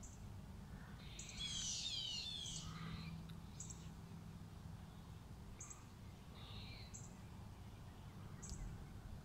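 Small birds calling: a quick run of chirps about a second in, then short, sharp high notes repeating every second or so, over a low background rumble.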